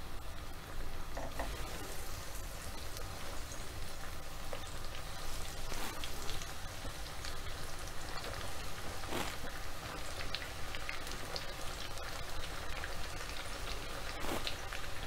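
Breadcrumbed chicken croquettes deep-frying in hot oil in a pan: a steady sizzle with sharper crackles now and then.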